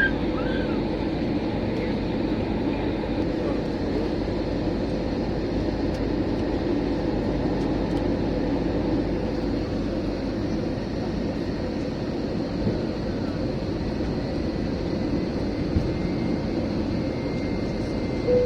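Steady cabin drone of an Airbus A321 in flight, engine and airflow noise with a constant hum running under it.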